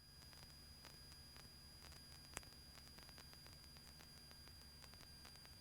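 Near silence: a faint steady hiss with a single faint click a little over two seconds in.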